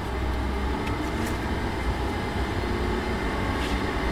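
Lamborghini Gallardo LP560-4's V10 engine running at low revs as the car rolls slowly, heard from inside the cabin as a steady low drone.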